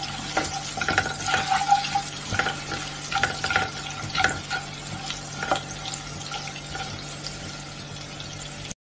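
Ginger and green chillies sizzling in hot oil in a non-stick kadhai, stirred with a slotted spatula that scrapes and taps against the pan in quick strokes over the first five seconds or so. After that the oil sizzles steadily, and the sound cuts off just before the end.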